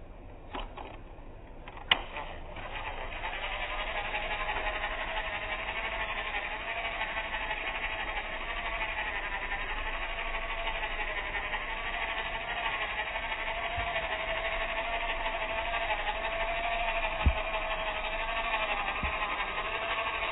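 Small electric motor of a battery-powered toy train running with a steady whine whose pitch wavers slightly. It starts just after a sharp click about two seconds in.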